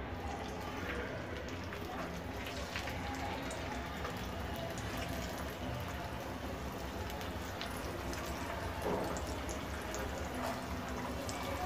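Marinated chicken pieces deep-frying in a pan of hot oil: a steady sizzle with scattered small crackles.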